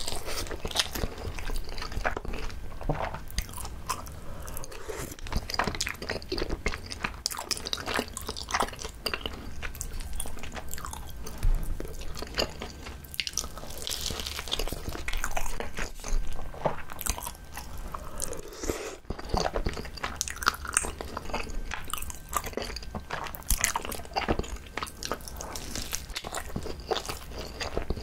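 Close-miked biting and chewing of a whole gimbap, a seaweed-wrapped rice roll with a soft rice-and-cheese filling: an irregular stream of wet mouth clicks, smacks and soft crunches.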